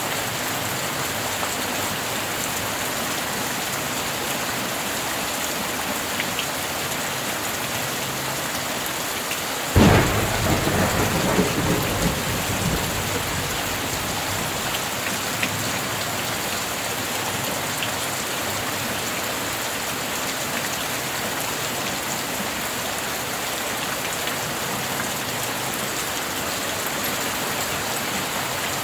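Steady rain falling, with a single sharp thunderclap about ten seconds in that rolls into a rumble lasting two or three seconds before the rain alone returns.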